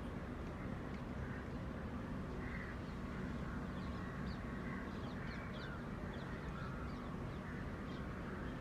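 A bird making a series of short, faint calls, about one a second, over a steady low background rumble.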